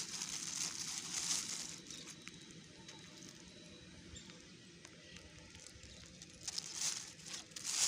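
Rustling and crinkling of plastic litter and dry ground debris being handled and pulled from the soil, with small clicks; it swells about a second in and again near the end.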